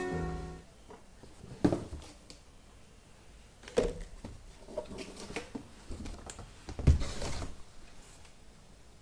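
Background music fading out at the start, then a few separate soft knocks and clatters of small objects being handled in a small room, the loudest about seven seconds in.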